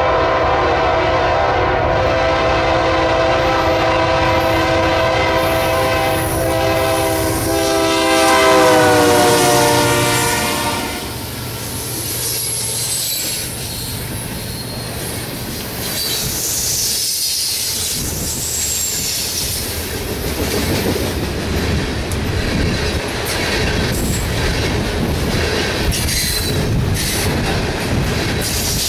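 Freight locomotive's air horn held in one long blast as the BNSF coal train approaches, loudest and dropping in pitch as the engine passes about nine seconds in, then cutting off. After it, the train's locomotives and coal hopper cars roll past with a rumble, clickety-clack from the wheels over the rail joints and high wheel squeal.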